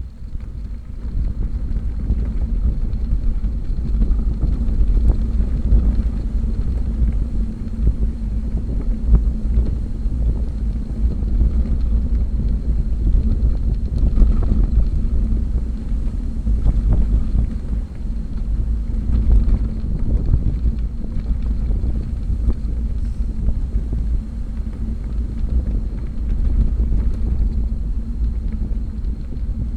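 Wind buffeting the microphone while riding a bicycle: a loud, steady low rumble that comes up about a second in.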